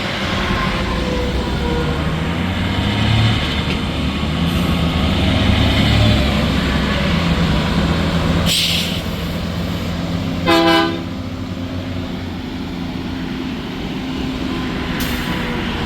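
Highway truck traffic passing: diesel semi-truck engines and tyre noise. A short horn toot sounds once, about ten seconds in.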